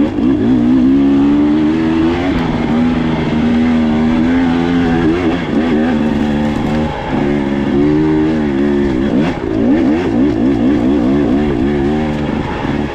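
Dirt bike engine running under changing throttle, its pitch rising and falling again and again.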